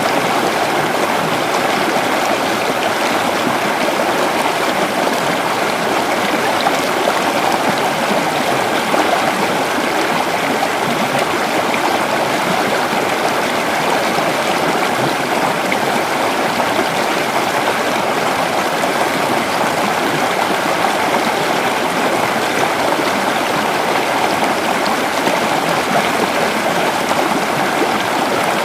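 Creek water flowing over rocks, a steady babbling rush without a break.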